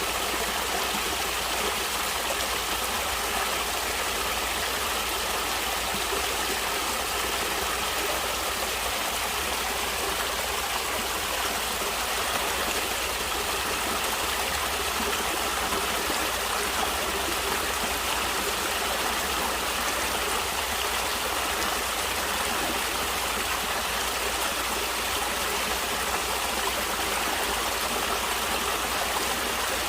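Natural stream water flowing steadily, an even wash of sound with no breaks or changes.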